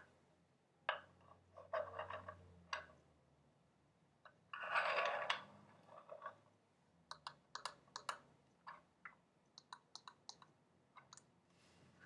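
Close-up ASMR tapping and clicking on small hard objects: sharp light clicks, scattered at first, then in quicker runs in the second half. There is a short rustling scrape about five seconds in.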